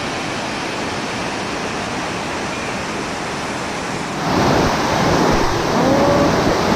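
Waterfall rushing as a steady, full roar of falling water, growing louder about four seconds in.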